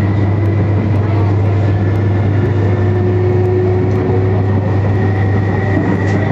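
Interior running noise of an MTR Metro-Cammell (MLR) electric train under way: a loud, steady rumble with steady whining tones held over it.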